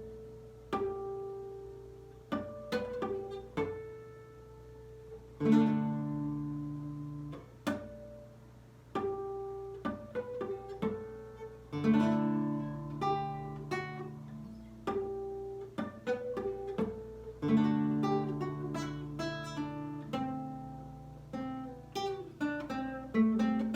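Lyle nylon-string classical guitar played fingerstyle: single plucked notes ringing out, with a fuller chord and deep bass note about every six seconds.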